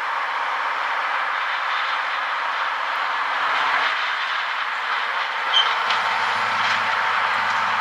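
A train running on the rails: a steady rushing noise of wheels and machinery with a faint low engine hum, and a short sharp click about five and a half seconds in.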